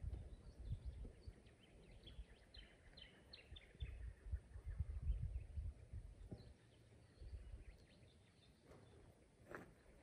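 Australian bush birds chirping at dawn: a quick run of short, high chirps a couple of seconds in, then a few scattered calls. The birds are faint under an uneven low rumble.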